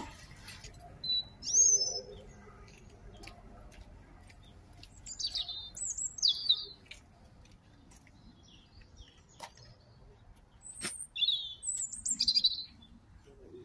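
A bird chirping in three short bouts of high, quick notes, with a few faint clicks in between.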